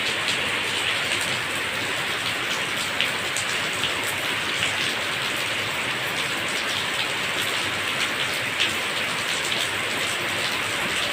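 Steady rain falling, an even hiss with many single drops ticking sharply through it.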